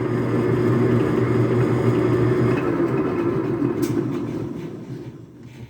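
Metal lathe running with a shell mill cutter head chucked in it, spinning freely with a steady hum, then switched off and spinning down over the last couple of seconds.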